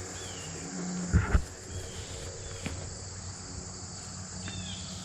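Steady outdoor chorus of insects, with a few short high chirps over it. A double thump or bump comes about a second in and is the loudest sound.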